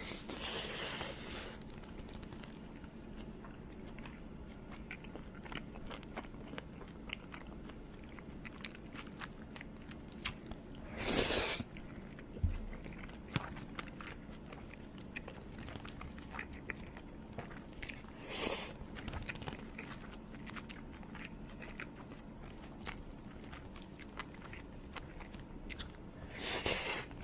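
Close-up chewing and biting of food, with small wet mouth clicks throughout. Four louder crunching bites, each about a second long, come near the start, about a third of the way in, about two-thirds in, and near the end.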